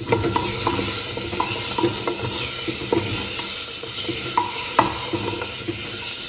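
Chopped tomatoes sizzling in hot ghee with fried onions while a wooden spatula stirs them, knocking and scraping against the pot about twice a second over a steady frying hiss.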